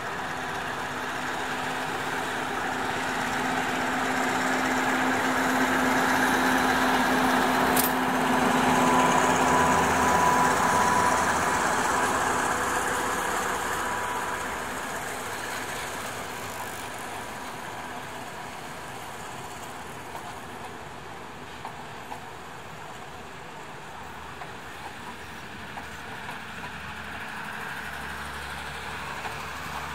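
Diesel locomotive hauling a passenger train pulls past, its engine growing louder to a peak about ten seconds in and then fading as the carriages roll by with a few light wheel clicks.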